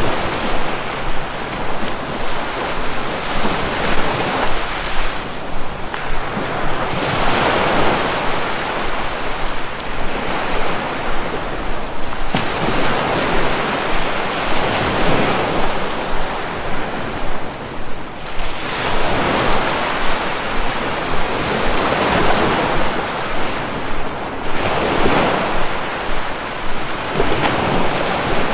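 Sea waves washing in, each one swelling up and falling back, a new surge every three seconds or so.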